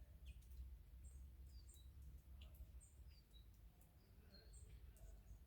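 Faint chirps of small birds: many short, high calls and little falling notes, a few each second, over a steady low rumble.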